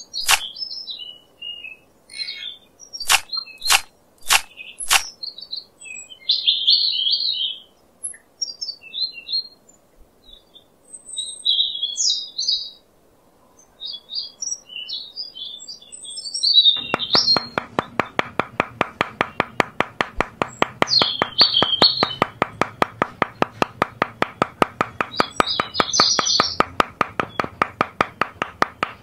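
Birds chirping throughout, with a few sharp clicks in the first five seconds. From about two-thirds of the way in, a small hammer taps a stick post into sand in a quick, even rhythm of about three to four taps a second.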